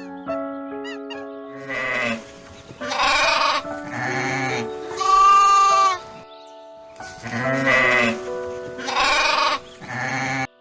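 Goats bleating: a series of about seven bleats starting a couple of seconds in, with one longer, louder bleat in the middle and a short pause before the last three. Gentle background music with held notes plays throughout.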